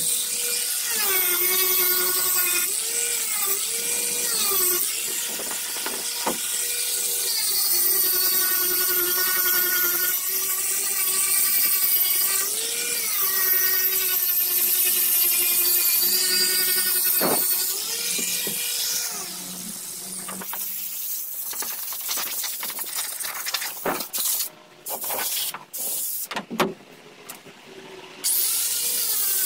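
Electric grinder grinding the boat's hull, a high motor whine whose pitch sags each time it is pressed into the work and recovers as it eases off. About two-thirds of the way through it drops quieter and cuts in and out in short spurts, then comes back up at full level near the end.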